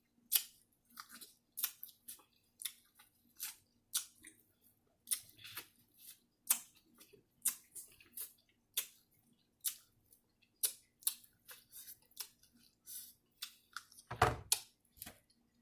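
A person chewing food close to the microphone: a steady run of short, crisp crunches and wet mouth clicks, about two a second. A dull knock comes near the end.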